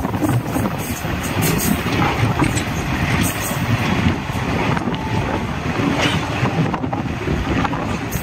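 Old ICF passenger coach running at speed, heard from on board: a steady rumble of wheels on the track.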